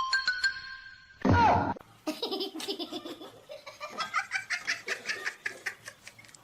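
Laughter, in quick repeated bursts that run for most of the last four seconds, after a loud short cry with falling pitch about a second and a half in.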